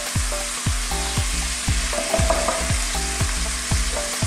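Chopped onions frying in shallow oil in a pan, a steady sizzle, over background music with a steady beat of about three thuds a second.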